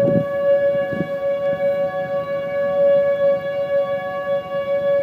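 Outdoor tornado warning siren sounding one long steady tone, holding the same pitch throughout, signalling a tornado warning.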